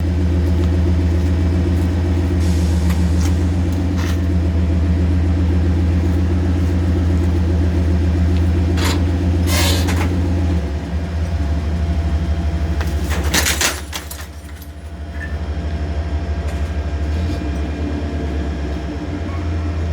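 Pickup truck engine running with a steady low drone, its note changing about ten seconds in and dipping briefly a few seconds later. A few sharp clicks and clatters come around the middle.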